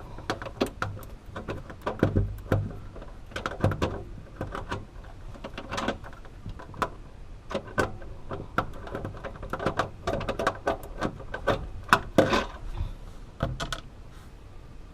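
Irregular small clicks, taps and scrapes of a 1/4-inch tool unscrewing a nut from a refrigerator's interior panel, with a faint low hum underneath.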